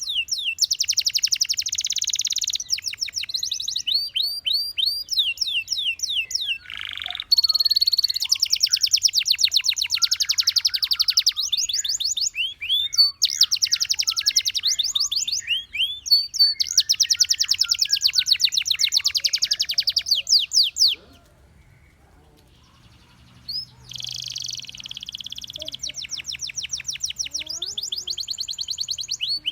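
Gloster canary singing: long fast trills of rapidly repeated sweeping notes, one tour running straight into the next, with a pause of about two seconds about two-thirds of the way through.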